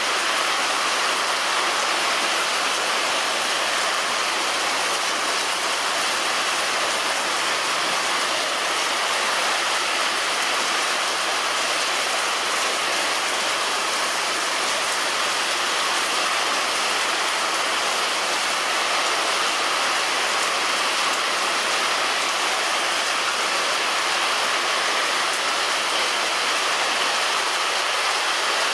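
Heavy rain falling on a roof, a steady dense hiss of raindrops.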